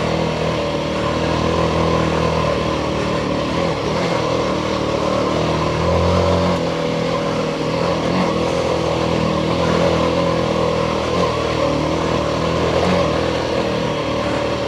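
Royal Enfield Himalayan 450's single-cylinder engine running under way, its pitch shifting a little as the throttle changes, over a steady hiss.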